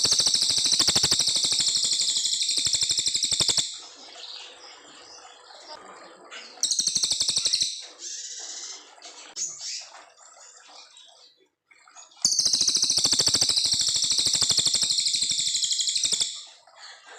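Cililin coklat songbird singing long, very fast high-pitched trills in three bouts: one of about three and a half seconds at the start, a short one of about a second in the middle, and one of about four seconds near the end.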